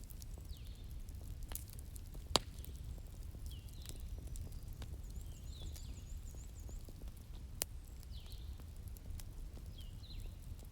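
Wood fire crackling over a low steady rumble, with many small snaps and two louder pops, one about two seconds in and another later on. Birds chirp at intervals of a couple of seconds, with a quick high trill in the middle.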